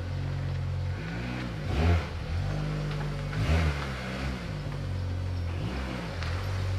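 The MINI R56's 1.6 HDi DV6 diesel engine runs steadily and is revved briefly three times, each blip rising and falling in pitch. The first two blips are the loudest.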